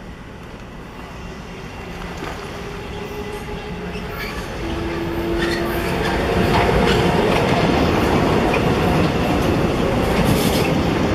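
Metro-North electric multiple-unit commuter train approaching and passing close by. It grows louder over the first six seconds, then holds a steady rumble of wheels on the rails with clicks as the cars go by.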